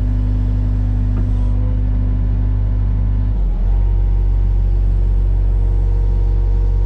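Hyundai 60CR-9A mini excavator's diesel engine running steadily, its note shifting slightly about three and a half seconds in.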